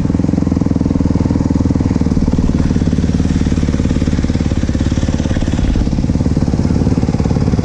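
Dirt bike engine idling steadily and close by, a fast, even run of firing pulses.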